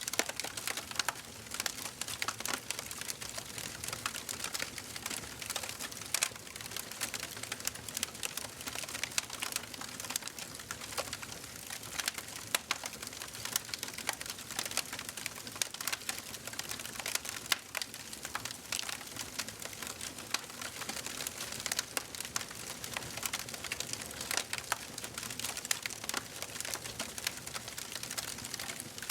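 Wood fire burning in a fireplace: a steady hiss with dense, irregular crackles and pops.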